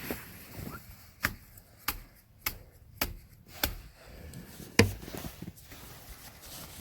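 A series of about six sharp knocks or clicks, roughly half a second apart; the last one, just under five seconds in, is the loudest.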